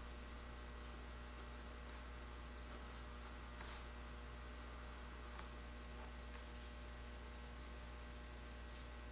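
Steady low electrical mains hum, with a few faint soft ticks.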